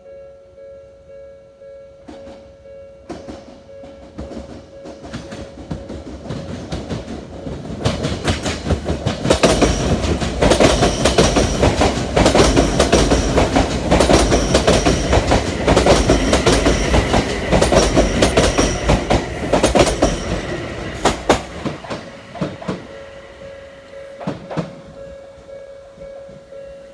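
Odakyu electric train passing over a level crossing, its wheels clattering rhythmically over the rail joints in the 'dadan, dadan dadan' pattern. The clatter builds a few seconds in, is loudest through the middle and then fades. At the start and again near the end, the level-crossing warning bell can be heard ringing in steady pulses, drowned out while the train passes.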